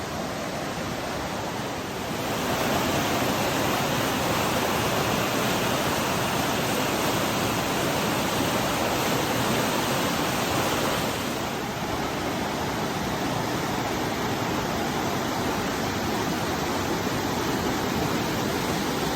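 Rushing water of the Dan River, a steady stream and small waterfall noise. It gets louder about two seconds in and eases slightly around eleven seconds.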